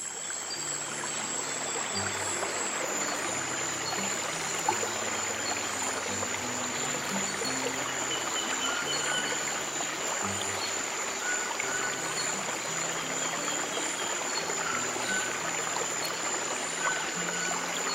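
Flowing stream water with slow, soft low piano notes underneath and a steady high-pitched tone.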